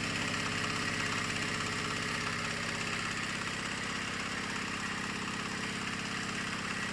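A 10 HP diesel engine driving a pellet feed mill, running steadily at constant speed with a rapid, even thudding rhythm and a thin steady high whine above it.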